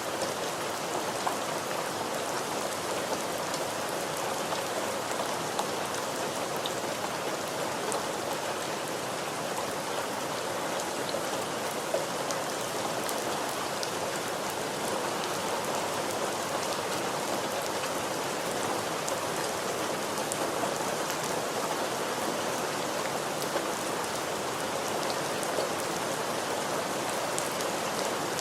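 Steady, even rain with scattered distinct drop ticks.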